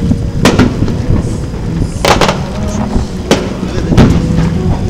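Aerial firework shells bursting: a string of sharp bangs, about five, with two close together about two seconds in, over a continuous low rumble.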